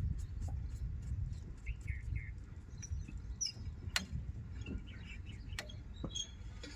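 Small birds chirping in short calls over a steady low rumble, with a few sharp clicks or knocks, the loudest about four seconds in.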